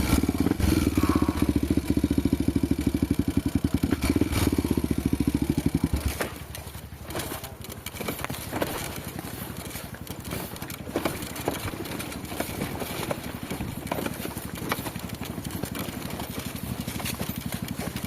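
Honda trail motorcycle engine running hard under throttle, then about six seconds in it drops suddenly to a low, steady idle with scattered clicks and clatter. The engine is labouring, and the rider expects it to stall.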